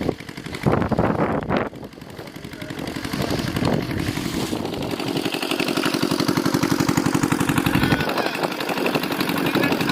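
A small engine running with a rapid, even beat, strongest in the middle of the stretch. There are two sharp noises within the first two seconds.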